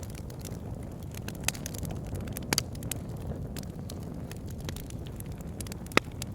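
Campfire burning with a steady low rumble and irregular sharp crackles and pops, the loudest about two and a half seconds in and near the end.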